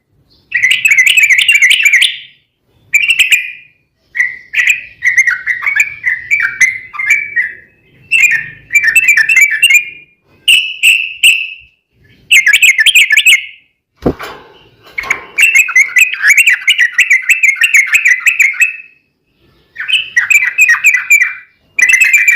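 Yellow-vented bulbuls (trucukan) singing in rapid, bubbly chattering phrases, one to three seconds each, with short pauses between. A single sharp knock comes about two-thirds of the way through.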